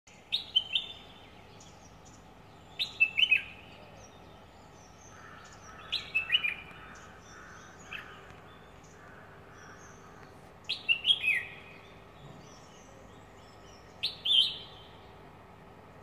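A bird singing: five short phrases of three or four quick whistled notes that step down in pitch, repeated every three seconds or so.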